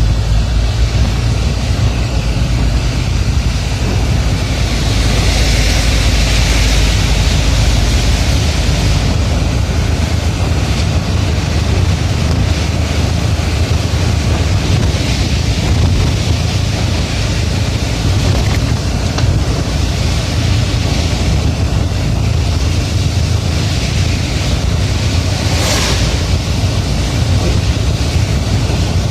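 Steady rain hissing over a deep, constant vehicle rumble. The rain hiss swells for a few seconds early in the stretch, and a brief sharp hiss cuts through near the end.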